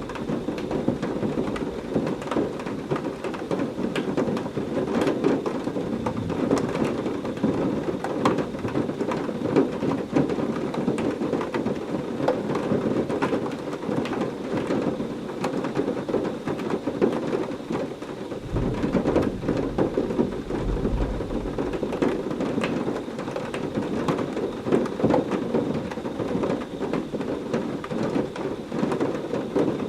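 Heavy rain falling steadily, with many separate drops striking a surface. A low rumble of thunder swells about eighteen seconds in and fades after a few seconds.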